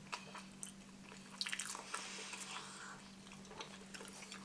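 Pizza being bitten and chewed, the crust giving faint crunchy, wet mouth sounds in scattered clicks, busiest in the middle. A steady low hum runs underneath.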